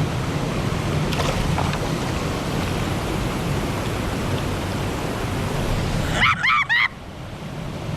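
Steady rush of a waterfall and fast creek water. About six seconds in comes a short, high-pitched cry lasting under a second, after which the water noise drops somewhat.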